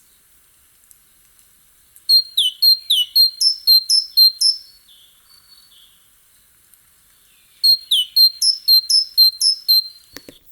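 Great tit singing: two bursts of quick, repeated two-note phrases of high, thin notes, one starting about two seconds in and the other near the end.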